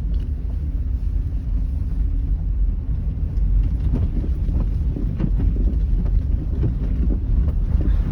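Car cabin road noise while driving on a snow-covered road: a steady low rumble of tyres and engine, turning rougher with many small knocks and crackles from about three and a half seconds in.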